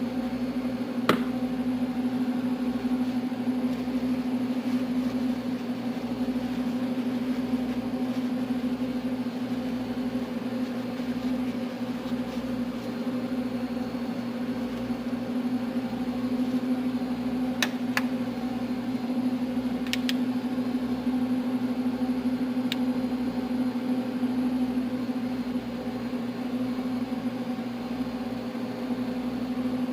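A steady electric or mechanical hum, unchanging throughout, with a few light clicks or taps.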